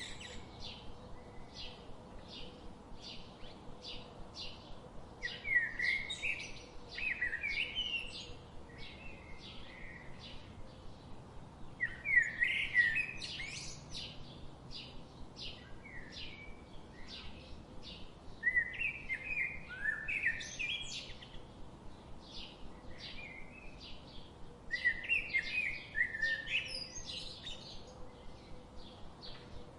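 Birds chirping: a steady run of short, high chirps about two a second, with louder warbling song phrases breaking in four times.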